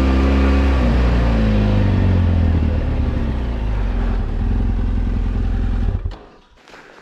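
BMW F800GS Adventure's parallel-twin engine running as the motorcycle rides on. Its pitch drops a couple of times in the first few seconds, then holds steady, and the sound cuts off about six seconds in.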